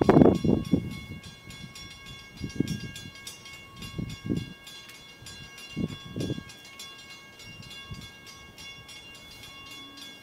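An Amtrak passenger train approaching from the distance, not yet in sight: several steady high ringing tones, with irregular low rumbles every second or two.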